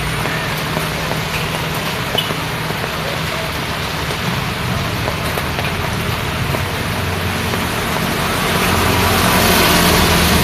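Road traffic in the rain: a steady hiss of rain and wet-road tyre noise over the low hum of idling and passing vehicle engines. The traffic grows louder near the end as a vehicle comes closer.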